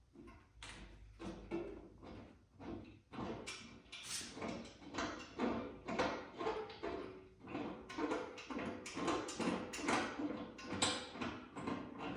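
Irregular clicking, scraping and rattling of hand work on a motorcycle's front end, as fender bolts and parts are handled and removed.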